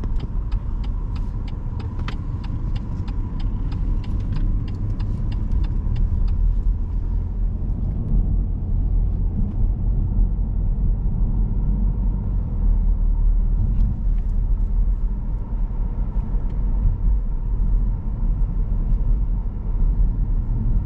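Steady road and engine rumble inside a moving car's cabin. The turn-signal indicator ticks about two to three times a second for the first six seconds, then stops.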